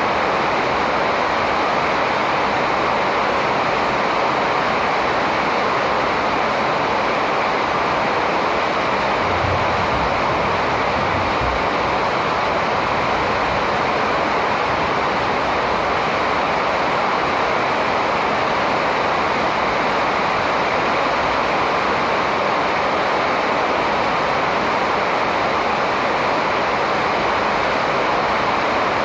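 A steady, even rushing noise that holds at one level throughout, with no distinct calls standing out.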